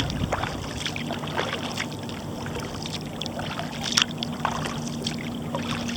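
Kayak paddle strokes: the blade dipping and dripping water in irregular splashes. A faint steady low hum joins about two seconds in.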